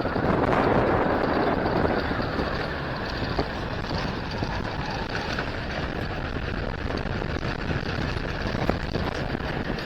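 A truck on the move: steady road and wind noise with no clear engine note, loudest in the first couple of seconds.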